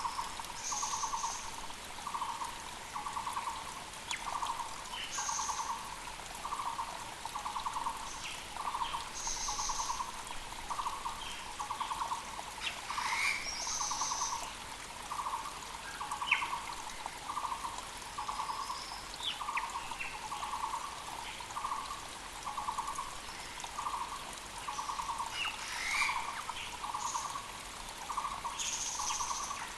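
Muller's barbet calling a low, rapidly pulsed note over and over, about once a second without a break. Other birds' short high calls and chirps come in now and then, over the faint rush of a mountain creek.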